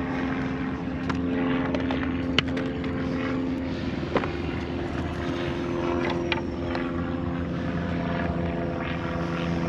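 RC hydroplane's water-cooled brushless motor running, a steady droning hum whose pitch steps down about four seconds in, with a few sharp clicks. It is running on nearly dead LiPo packs.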